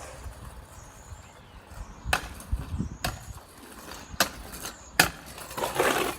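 Kick scooter clattering on pavement, with four sharp knocks of the deck and wheels striking the ground spread over about three seconds, then a brief rough rush of noise near the end. Birds chirp faintly behind.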